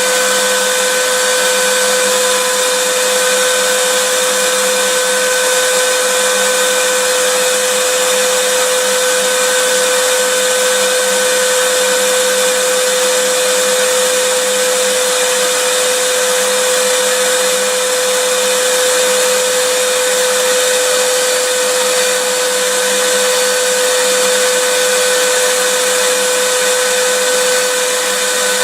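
Vacuum cleaner running steadily, a loud rushing whoosh of air with a steady whine in it.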